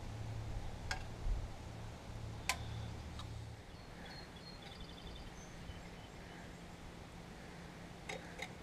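A few sharp clicks and taps of small parts being handled during hands-on repair work, over a low steady hum that stops about three and a half seconds in. Faint high chirps, like a small bird, in the middle.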